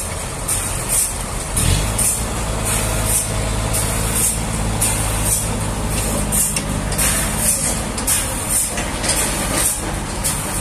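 A heavy engine running steadily, its low hum growing stronger about two seconds in, with a high hiss that pulses about two to three times a second.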